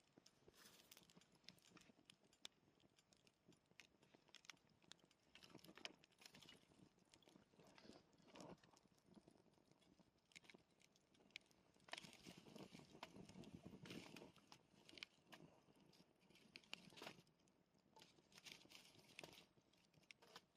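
Faint campfire crackling: irregular small pops and snaps from burning wood, denser and a little louder for a couple of seconds past the middle.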